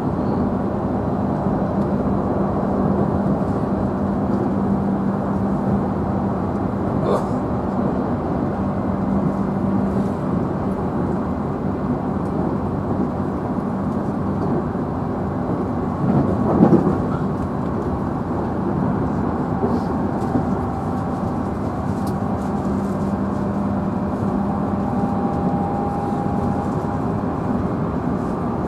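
Cabin running noise of a JR Central 311 series electric train's motor car at speed: a steady rumble of wheels on rail under a steady low motor hum. A brief louder rush comes about 16 seconds in.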